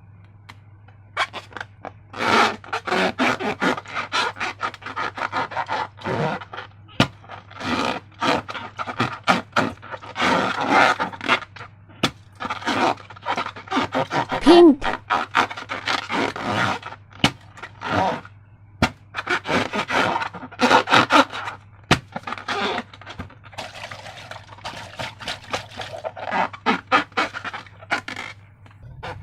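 Hands working slime and rubber balloons at close range: repeated bursts of crackling and scraping with sharp clicks, and a brief squeak about halfway through.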